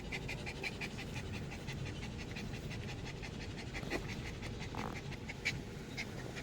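A puppy panting rapidly and evenly, about six short breaths a second, over a low steady rumble.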